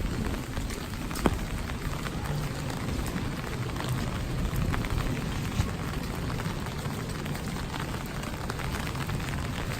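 Steady rain falling, a dense patter of many small drop taps, with one sharper tap just over a second in.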